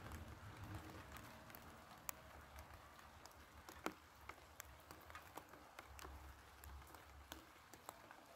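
Faint light rain: scattered single raindrops ticking at irregular moments, a few a second, over a soft hiss.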